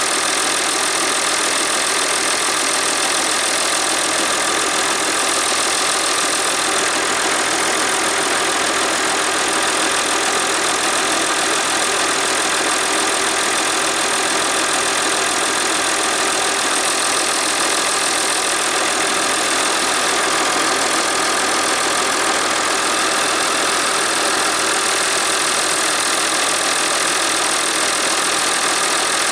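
Massey Ferguson 1135 tractor's six-cylinder diesel engine running steadily at a constant speed.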